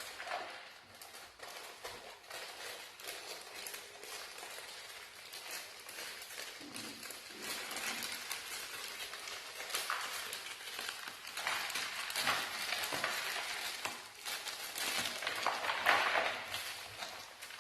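Plastic packaging crinkling and rustling as it is handled, with scattered small clicks and a few louder swells.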